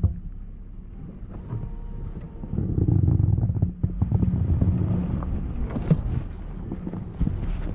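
Wind buffeting the microphone outdoors in a snowstorm: an uneven low rumble that swells and eases, with a few scattered knocks.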